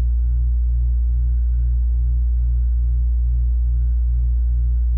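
Air-conditioning unit running: a loud, steady low hum with a slow pulsing beat of about two pulses a second.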